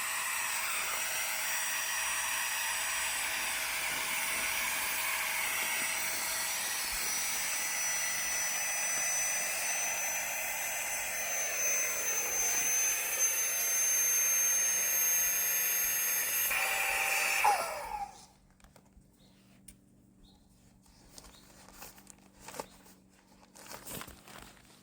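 Small electric air pump inflating a sleeping mat, running with a steady whine. Its note drops slightly about halfway through, and it cuts off suddenly about 18 seconds in, followed by a few faint clicks.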